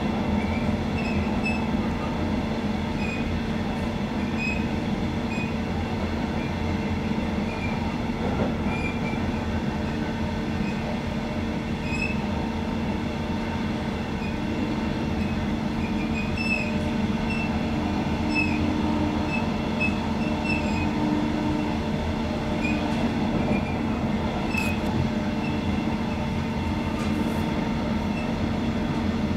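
High-speed rolling sound inside a Metronom double-deck passenger coach: a steady rumble of wheels on rail with a low drone. Faint high chirps or squeaks come and go throughout.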